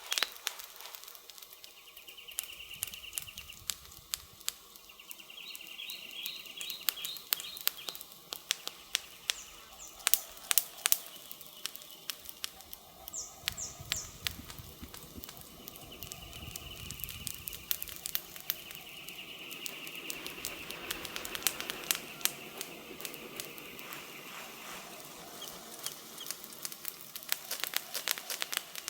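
Wood campfire crackling and popping, with sharp snaps scattered throughout and a cluster of louder pops about ten seconds in. Birds chirp in the background in short spells.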